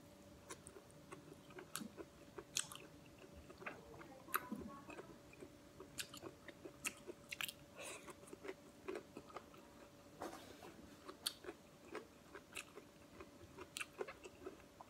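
Faint chewing and mouth smacks of a person eating chicken curry and rice with her fingers: soft, irregular clicks and wet smacks, over a faint steady hum.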